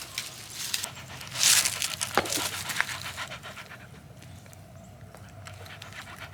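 A dog panting close to the microphone, with a burst of rustling about a second and a half in.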